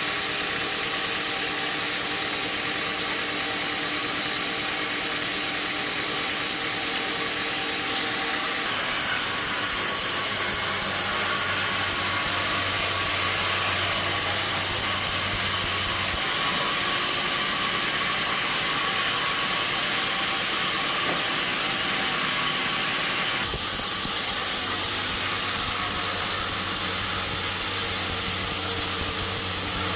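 Sawmill machinery running with a steady, noisy hiss. The sound shifts abruptly three times, about every seven or eight seconds.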